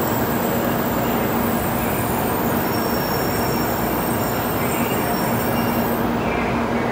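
Steady hum and hiss of a shinkansen train standing at a station platform.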